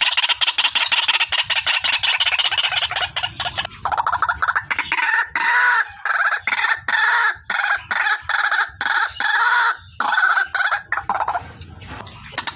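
Female white-breasted waterhen (ruak-ruak) calling: a fast rattling run of rapid notes for the first few seconds, then a string of separate harsh notes about two a second, with the rapid run starting again near the end.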